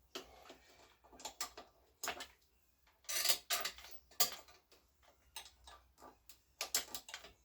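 Irregular light clicks and clinks of small metal parts and tools being handled during reassembly of a moped, with a busier run of knocks about three to four seconds in.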